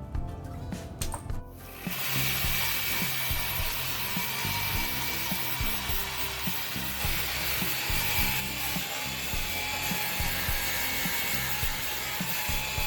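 Power tool grinding the steel surface of an old pressure tank, starting about two seconds in and running steadily with a faint whine. Background music plays throughout.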